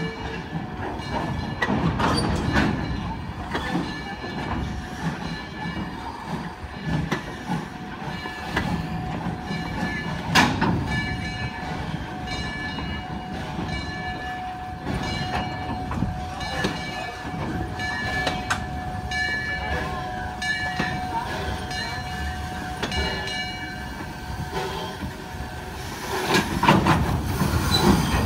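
Open excursion cars rolling slowly past, wheels clicking over the rail joints, with a faint steady metallic squeal from the wheels through much of it. Near the end a small steam locomotive comes by, hissing steam.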